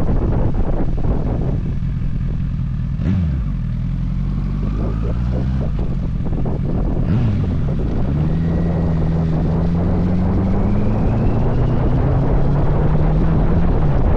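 Motorcycle engine and wind rush while riding. The wind noise drops about a second and a half in, leaving the engine clearer. Its pitch dips sharply at gear changes about 3 and 7 seconds in, then climbs slowly as the bike accelerates.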